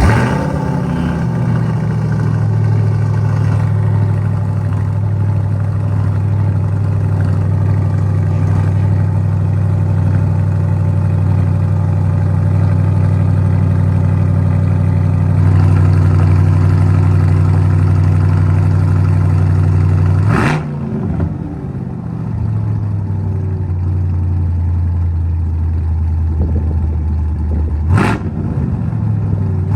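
Chevrolet Corvette C8's V8 starting up and settling into a steady idle. The idle rises a little about halfway through. Two quick throttle blips follow, one about two-thirds of the way in and one near the end.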